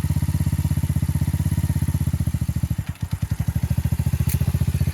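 Motorcycle engine running at idle in gear with steady, even firing pulses; about three seconds in it briefly falters and dips before running evenly again.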